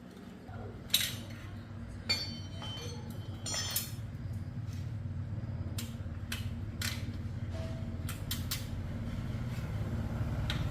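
Metal tools and parts clinking and tapping a dozen or so times, some strikes ringing briefly, over a steady low machine hum that starts about half a second in.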